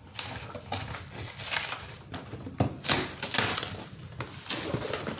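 Cardboard carton of oil cans being opened and rummaged through: irregular rustling and crinkling of cardboard, with a few sharp knocks.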